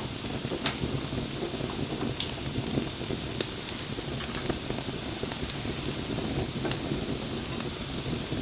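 Wood bonfire burning: a steady low rumble of the flames with scattered sharp crackles and pops, a few louder pops standing out over the rest.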